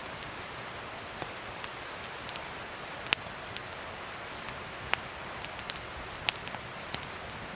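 Wood fire crackling: a steady hiss with scattered sharp pops, the loudest about three seconds in and a few more near five and six seconds.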